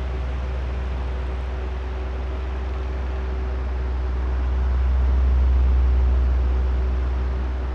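Oscillating electric fan running: a steady rush of moving air over a low motor hum. The airflow swells to its loudest about five and a half seconds in and then fades back as the fan head sweeps past the microphones.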